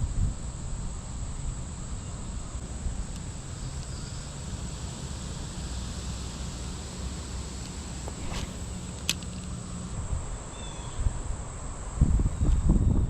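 Insects trilling steadily in one continuous high-pitched drone, over low wind rumble on the microphone. Two sharp clicks come about eight and nine seconds in, and the low rumble grows louder near the end.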